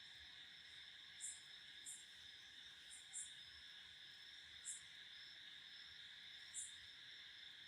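Near silence: a faint steady high hiss with about half a dozen short, very high chirps at irregular intervals, like insects calling.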